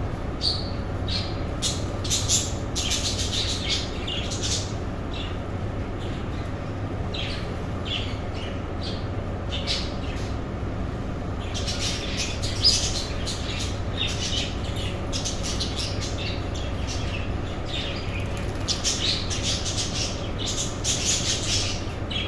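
A colony of budgerigars and lovebirds chattering, with many short chirps and squawks coming in busy clusters, over a steady low hum.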